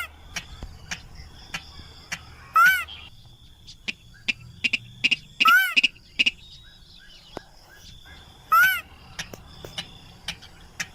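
Rail lure-call recording: a loud, short, arched call note repeated about every three seconds, four times, with quieter clicking and chirping calls between.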